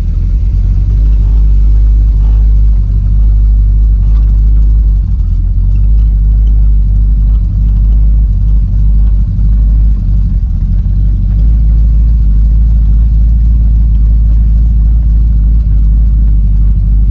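Chevy V8 engine in a 1929 Ford Model A pickup hot rod idling with a steady, deep rumble, heard from inside the cab.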